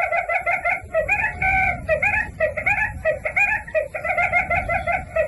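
Birds calling in a fast, continuous chatter of short repeated notes, several a second.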